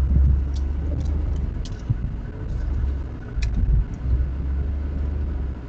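Low, uneven rumble of a car heard from inside the cabin, with a few faint light ticks scattered through it.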